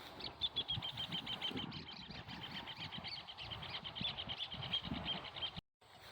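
A bird calling in a rapid run of high, short chirps, about eight a second, which stops abruptly near the end, with irregular low thuds underneath.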